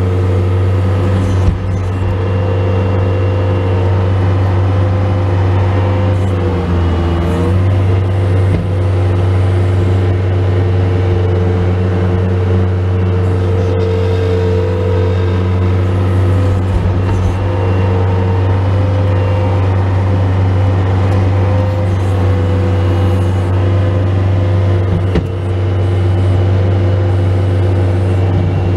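Bobcat S185 skid steer loader's diesel engine running steadily while plowing snow, its pitch dipping briefly about seven seconds in under load. A sharp knock sounds about a second and a half in.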